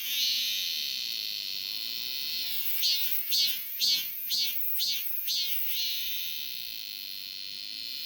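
Korean robust cicada (Hyalessa fuscata) singing its phrased song: a long steady high buzz, then a run of pulsed calls about two a second, then another long steady buzz.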